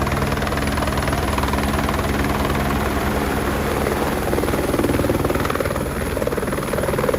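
Helicopter running, its rotor beating in a fast, steady chop over a constant engine hum.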